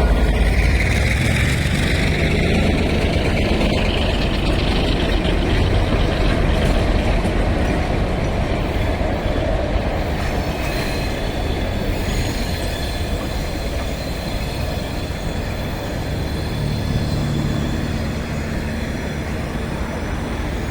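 Passenger train rolling past on the rails, loudest at first and slowly fading, with a faint high wheel squeal in the second half.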